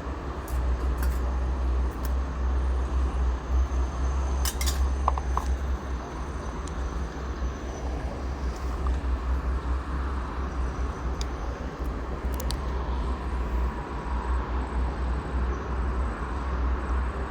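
Steady low rumble of toll-road traffic, with a few light clicks now and then.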